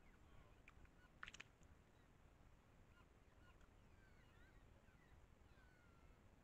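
Faint wild birds: one short harsh call about a second in, then thin chirps and gliding whistles further off, over near silence.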